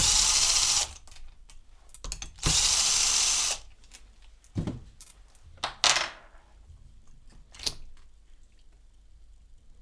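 A power drill-driver runs in two bursts of about a second each, unscrewing fasteners on a pressure washer pump. A few short knocks of metal parts being handled follow.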